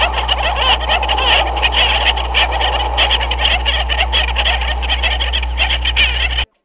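Dense chorus of many overlapping animal calls, rapid croaking and chirping, over a steady low hum. It cuts off suddenly near the end.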